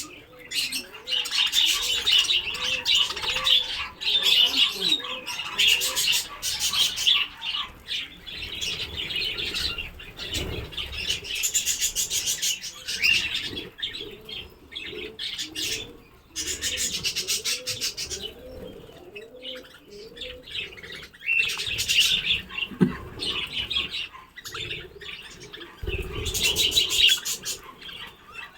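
A flock of budgerigars chattering and chirping, with repeated bursts of rapid sound a second or two long, as of wings flapping.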